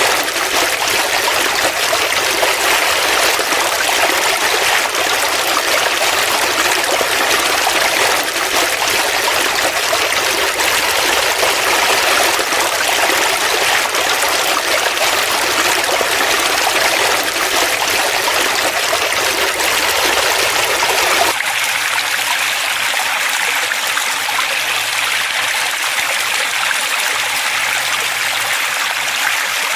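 Forest stream flowing and trickling steadily. About two-thirds of the way through, the sound changes abruptly to a thinner rush with less low rumble, as at a cut to another stretch of water.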